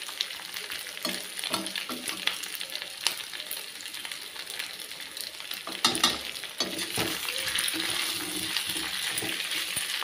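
Pieces of steamed rice fara frying in oil in a metal kadhai, a steady sizzle, with a metal spatula clinking and scraping against the pan now and then as they are stirred, most around six seconds in.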